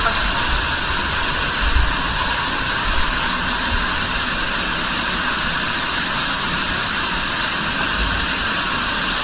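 Cave waterfall, swollen by rain, roaring: a steady, even rush of falling water, with a few soft low bumps.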